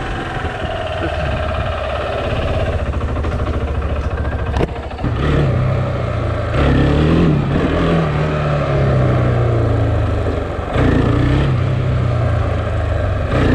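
KTM Duke 690's single-cylinder engine accelerating hard, its pitch climbing and dropping back at a few gear changes.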